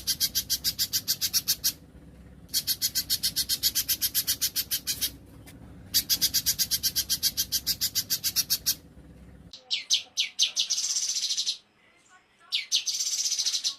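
Small songbirds giving fast, high trills in three bursts of two to three seconds each. About nine and a half seconds in, the recording changes: a few quick falling notes lead into a dense, buzzy trill, and this happens twice.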